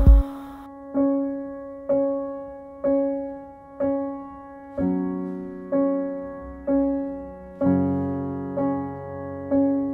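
Slow piano music: single notes struck about once a second, each ringing and fading, with fuller chords joining about halfway through. A brief rush of noise with a low thud sits at the very start.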